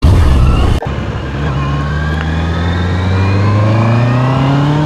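Honda CBR650R inline-four motorcycle engine and exhaust under acceleration. There is a brief break about a second in, after which the engine note climbs steadily.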